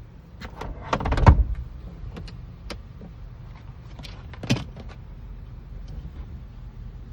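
Clicks and knocks from hands-on work on a car door: a quick cluster with one loud knock about a second in, a click near three seconds and another knock around four and a half seconds.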